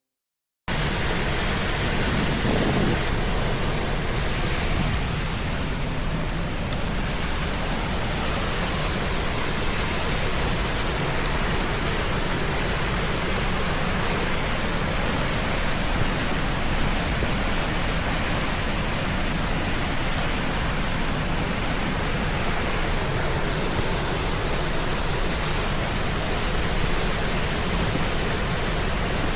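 Steady, loud rush of falling water from a rainforest waterfall, an even roar that cuts in abruptly about a second in.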